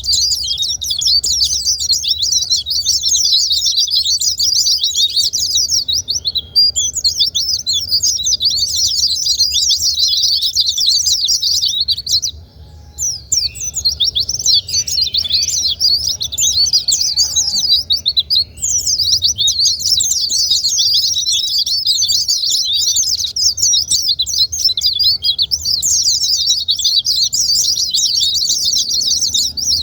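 Pleci (white-eye) song: a rapid, high, dense twittering warble that runs almost without pause. It breaks off briefly three times, longest about twelve seconds in. It is the kind of lure recording played to get a reluctant caged white-eye singing.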